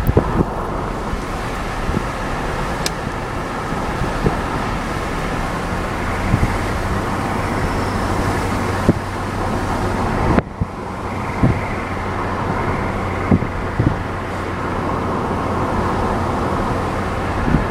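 Car on the move: steady road and engine rumble with a low hum and a few short knocks. The sound breaks off abruptly about ten seconds in and then picks up again.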